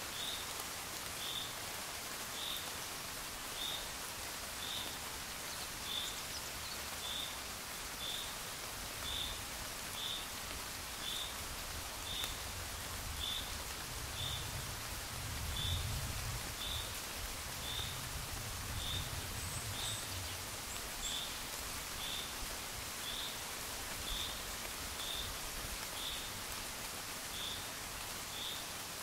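Steady gentle rain falling, with a short high chirp repeating about once a second over it and a low rumble swelling up and dying away around the middle.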